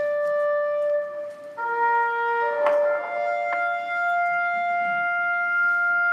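Slow instrumental background music of long held notes, the chord shifting every second or two, from a documentary video's soundtrack played over speakers in the room.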